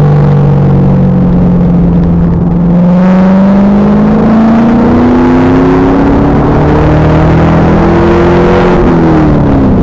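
Stock LS1 V8 of a 2000 Pontiac Trans Am Firehawk, through its stock SLP exhaust, pulling hard on track: the engine note holds for a few seconds, climbs steadily as the car accelerates, then drops sharply near the end as the throttle comes off. Heard through a rear-mounted camera's poor-quality audio.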